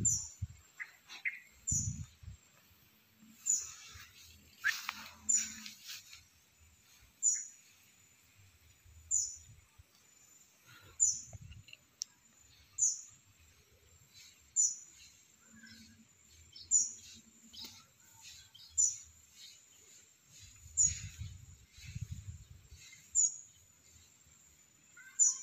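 A bird giving a short, very high-pitched chirp over and over, about once every two seconds, with faint low thumps in between.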